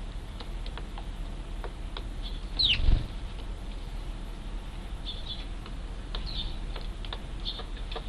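Short chirps of Eurasian tree sparrows, including fledglings, repeating in small clusters. About three seconds in comes one louder call falling in pitch, together with a brief low thump.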